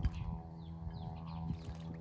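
A steady low drone made of several held tones runs throughout. Over it, small birds chirp faintly, and a brief splash sounds right at the start.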